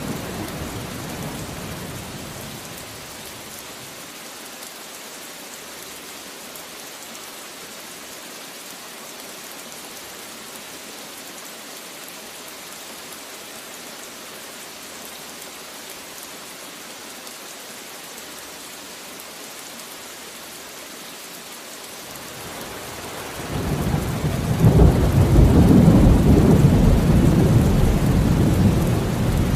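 Steady rain with rolling thunder: a rumble dies away over the first few seconds, then after a stretch of plain rain a loud low thunder rumble builds about three-quarters of the way through and carries on to the end.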